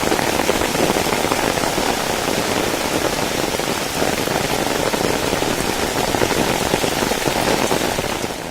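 Rain falling steadily, a dense even patter that eases slightly near the end.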